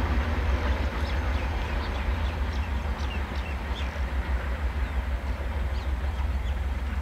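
Passenger train running, a steady low rumble with short high chirps scattered over it.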